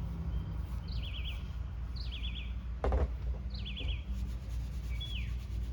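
A small songbird singing: a short high note followed by a quick run of three or four notes, repeated several times, then falling slurred calls near the end. A brief knock about three seconds in, over a steady low hum.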